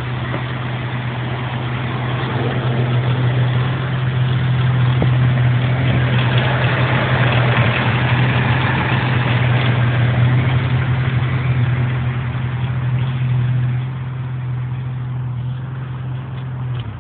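Ford straight-six engine's exhaust running steadily at idle, a deep even note with no change in pitch. It grows louder for several seconds in the middle, then cuts off suddenly just before the end.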